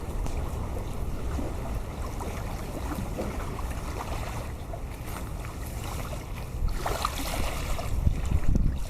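Wind buffeting the microphone in a low, steady rumble, growing gustier near the end.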